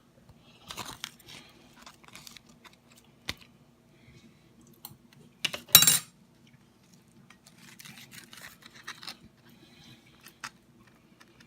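Spoon and container handling while sour cream is spread onto hard corn taco shells: scattered clicks and short scrapes, with one louder crunchy scrape about halfway through. A faint steady hum runs underneath.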